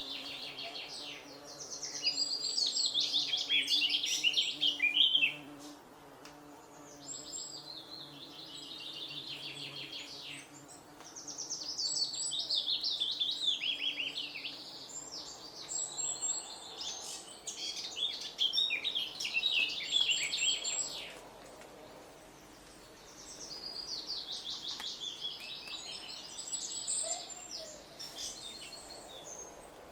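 A songbird singing, about five long songs of rapid trills and quick varied high notes with short pauses between them. A faint steady low hum sits underneath during the first half.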